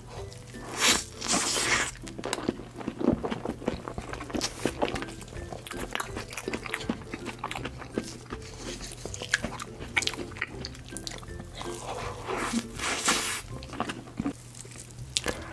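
Close-miked eating sounds of cake being bitten and chewed, with crunchy bites, over soft background music.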